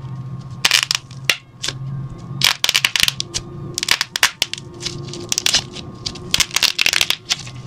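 Slime being squeezed and kneaded by hand, making clusters of crackling and popping clicks.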